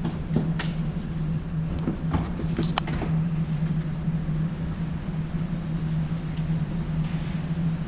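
A steady low machine hum, with a few sharp clicks or knocks, the loudest nearly three seconds in.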